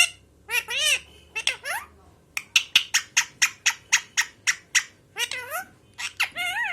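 Pet parrot calling: a few arching calls, then a rapid run of about a dozen short, sharp squawks at roughly five a second, then more drawn-out arching calls near the end.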